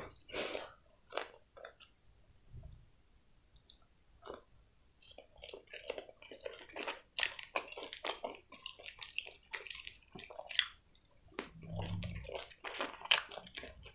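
Close-miked chewing of breaded chicken: wet, clicky mouth sounds, sparse at first and denser from about five seconds in. A short low closed-mouth hum comes near the end.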